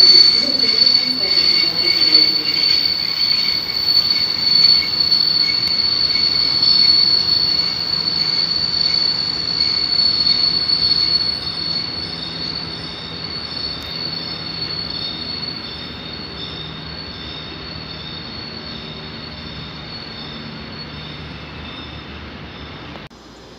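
A train moving away, its wheels giving a steady high-pitched metallic squeal over a rolling rumble; lower tones drop in pitch in the first second or so. The sound fades over the second half and cuts off just before the end.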